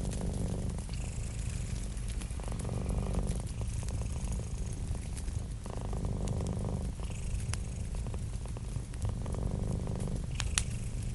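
Domestic cat purring steadily, a low continuous rumble that swells in slow breath cycles about every three seconds, with small pops and crackles from a wood fire, one sharper pop near the end.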